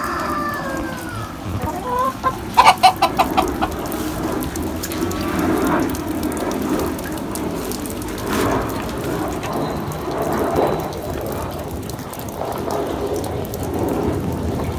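Chickens clucking, with a quick run of about seven loud clucks about two and a half seconds in, then scattered fainter calls.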